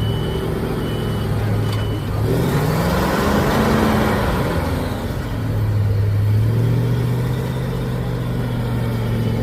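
Six-wheel-drive trial truck engine idling steadily with its reversing beeper pulsing, then revving up about two seconds in and dropping back to a steady idle a few seconds later.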